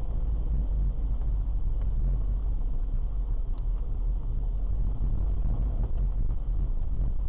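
Car driving, heard from inside the cabin: steady road and engine rumble, heavy in the low end, with a few faint ticks.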